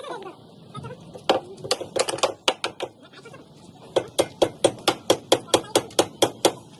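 Hammer driving nails into the timber of slab shuttering: a few irregular blows at first, then a steady run of about four strikes a second in the second half.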